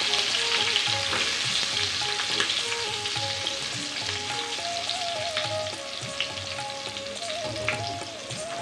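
Green chillies and whole spices frying in hot mustard oil in a stainless steel kadhai: a steady sizzle with small crackles that eases slightly toward the end, while a spatula stirs and scrapes through the pan.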